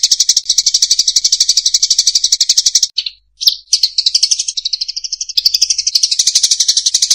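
Munias (emprit sawah) chirping in a lure-call recording: a fast, even run of high chirps, about a dozen a second, that breaks off about three seconds in, a few separate calls, then the fast chirping again from about five and a half seconds.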